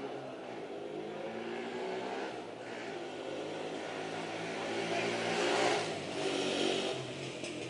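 A motor vehicle's engine running close by, growing louder to a peak about five and a half seconds in and then easing off, like a car passing.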